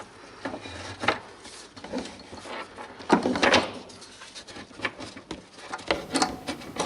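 Irregular clicks, knocks and scrapes of hand work on the car's underside, likely the sheet-metal heat protection plate being handled, with a longer scrape about three seconds in.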